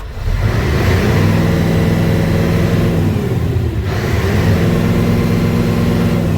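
Isuzu dump truck's 10PE1 V10 diesel engine revved up twice. Each time the pitch climbs, holds for a second or two, then falls back toward idle, once about midway through and again near the end.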